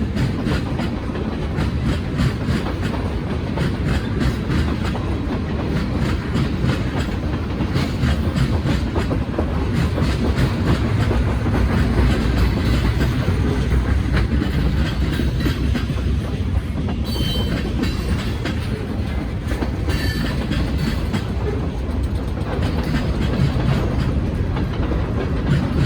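Freight train cars rolling past, their wheels clicking steadily over the rail joints, with a couple of brief faint wheel squeaks past the middle.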